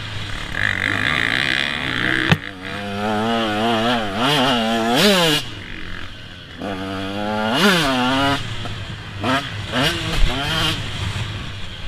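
Motocross bike engines revving hard, the pitch climbing in steps through the gears and dropping off several times as bikes ride the track. There is a sharp knock about two seconds in.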